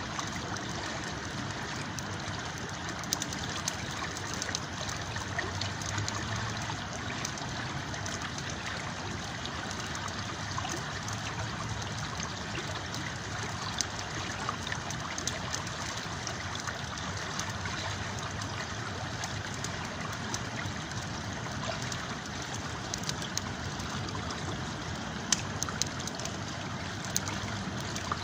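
River water flowing steadily, with a campfire crackling in scattered sharp clicks over it, a few louder ones near the end.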